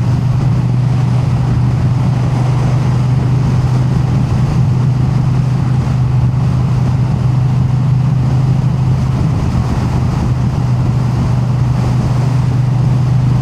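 Triumph Bonneville T100's parallel-twin engine running at a steady cruise, its note holding constant, under wind noise on the microphone.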